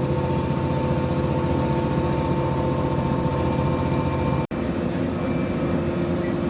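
Old JNR-type electric train, a 115 series on the Echigo Line, running with a steady hum made of several held tones; the sound cuts out for an instant about four and a half seconds in.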